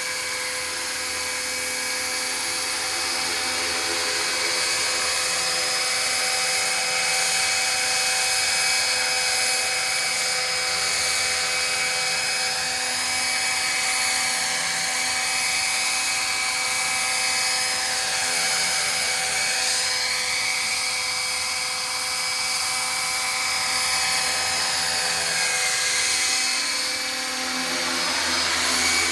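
Electric RC scale helicopter (Roban EC135 model) in flight, its motor and main rotor spun at about 1250 RPM head speed giving a steady high whine. The pitch sweeps down and back up a few times as it flies past, around the middle and again near the end.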